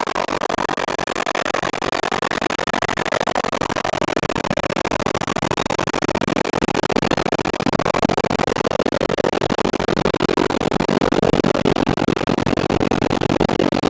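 R142 subway car running between stations, heard from inside the car: a steady noise of wheels on the rails and the car rattling, with no clear tones or breaks.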